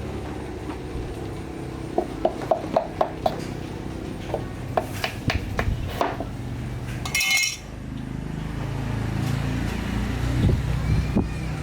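Light metallic clinks and taps, a quick run of about six about two seconds in and a few more a few seconds later, over a steady low hum; a short hiss cuts in about seven seconds in.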